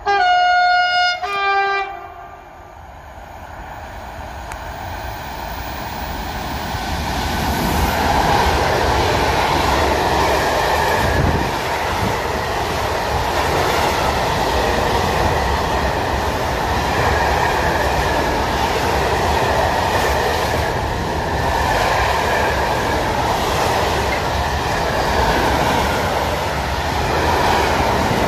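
A freight train's horn sounds two short blasts, one right after the other. The train then approaches, growing louder over several seconds, and its open gondola wagons roll past with a steady rumble of wheels on rails and an irregular clickety-clack.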